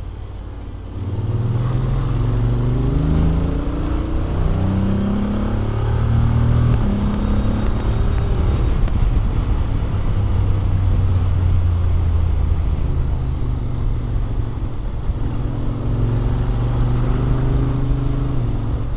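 Honda X-ADV 750's parallel-twin engine, breathing through the stock exhaust with an Akrapovic manifold, accelerating from about a second in: its pitch climbs in steps as it shifts up through the gears. It then runs at a steady cruise and climbs again near the end.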